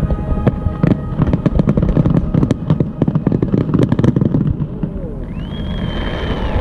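A fireworks display going off in a dense, rapid barrage of bangs and crackles over a low rumble. About five seconds in, the bangs thin out and a high steady tone is held until near the end.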